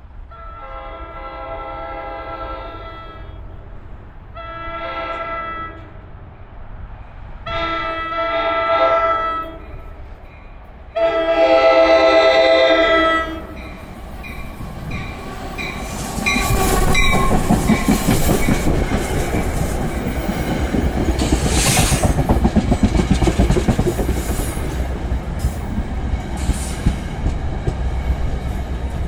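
NJ Transit commuter train's chime air horn blown four times as the train approaches: a long blast, a shorter one, then two more long blasts, each louder than the last. From about halfway the train rolls past close by, its wheels rumbling and clattering over the rails.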